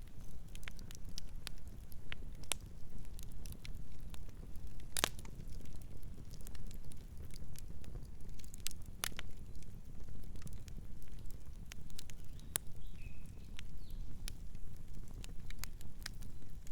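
Campfire burning: a steady low rumble of the flames with scattered sharp crackles and pops of the burning wood, two of them louder, about five and nine seconds in.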